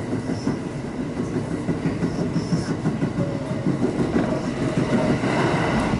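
Inside a JR West 227 series electric train running between stations: a steady rumble of the wheels on the rails and the running gear, with a few brief faint high squeaks.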